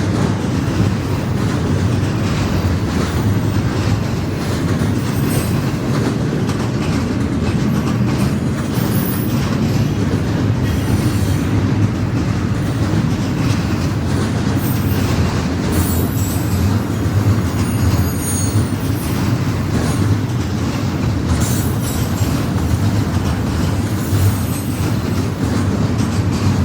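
Cars of an intermodal freight train rolling steadily past at close range, wheels rumbling and clacking on the rails. Short high wheel squeals come and go several times.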